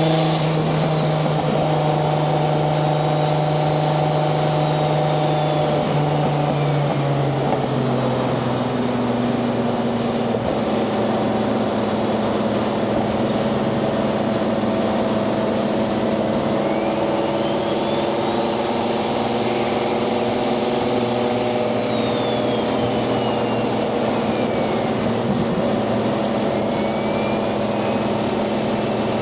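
Nissan 240SX's swapped 1JZ-GTE VVTi inline-six with a single turbo, cruising under light load with a steady drone that steps down in pitch a couple of times about a quarter and a third of the way in. A high turbo whistle rises and falls several times over it.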